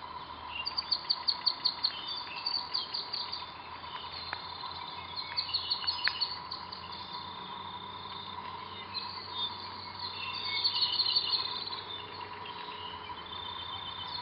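Songbirds singing in a forest, with several quick runs of high chirps and trills, loudest about a second in, around six seconds and around eleven seconds, and a thin steady tone underneath.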